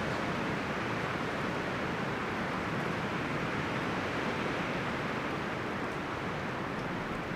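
Steady wind rustling through the leaves and branches of a forest.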